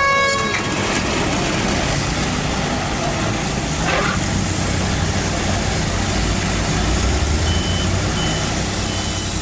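An air horn blast cut off about half a second in, starting the race. Then the engines of several portable band sawmills run steadily under load as they cut logs, with a dense hiss over the engine hum. Near the end an electronic beeper begins, about one and a half beeps a second.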